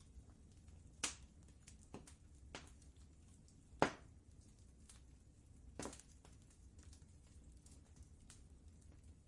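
Wood fire crackling softly with scattered small snaps and a few sharper pops, the loudest near the middle, over a steady low rumble.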